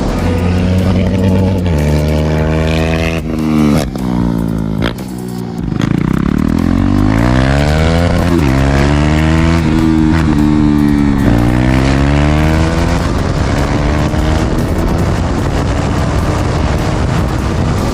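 KTM Duke 390's single-cylinder engine running loud with its muffler removed, pulling up through the gears: the pitch climbs and drops sharply at each shift, with a brief easing off of the throttle about four seconds in.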